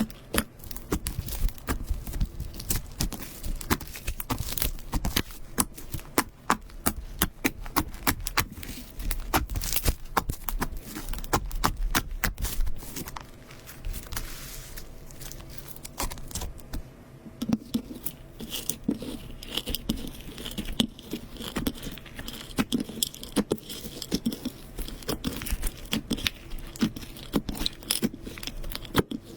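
Slime being played with by hand, squeezed, poked and stretched, giving fast, irregular crackling clicks and pops. It eases off briefly about halfway through, then comes back as lower, softer popping.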